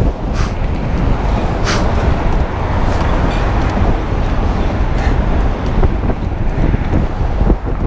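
Wind buffeting the microphone of a moving bike, over a steady rush of road traffic, with a couple of brief clicks early on.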